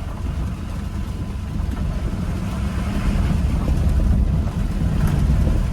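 Pickup truck driving down a slick, muddy dirt road: a steady low engine and road rumble that grows a little louder about halfway through.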